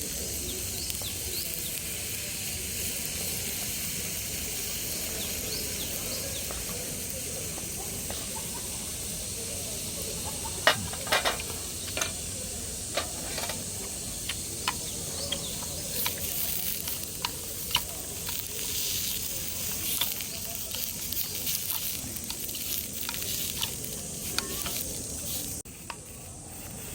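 Food sizzling in a frying pan: a steady frying hiss, with sharp pops and crackles from about ten seconds in.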